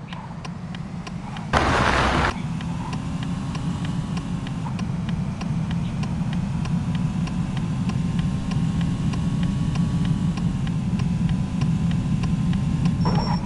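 A car engine starts with a short loud burst about a second and a half in, then idles steadily. An even ticking, about two ticks a second, runs under it.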